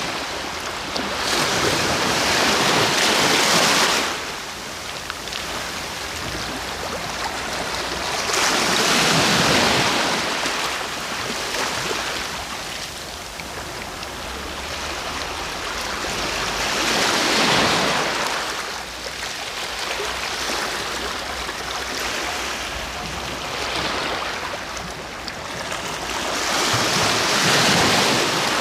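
Sea waves breaking four times, about every eight seconds, each surge of surf swelling up and then falling back to a softer wash between breaks.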